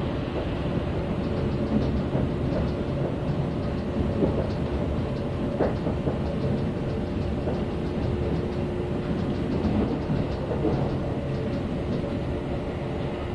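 Kintetsu electric train running along the track, heard from inside the passenger car: a steady rumble of wheels on rails with a steady hum held throughout.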